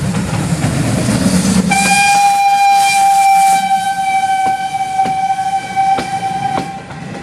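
Steam locomotive whistle blowing one long steady note for about five seconds over the train's running noise, with the wheels clacking over rail joints about once a second near the end.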